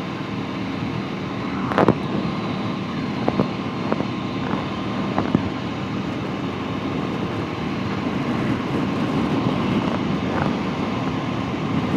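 Aprilia Tuono V4 1100 Factory's V4 engine running steadily at cruising speed, mixed with wind noise on the microphone, with a few short clicks.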